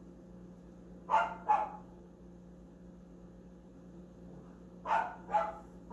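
A dog barking: two quick pairs of short barks, one about a second in and the other near the end.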